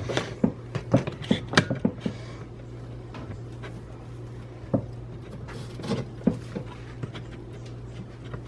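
Scattered short clicks and knocks, several in quick succession in the first two seconds and a few more later, over a steady low hum.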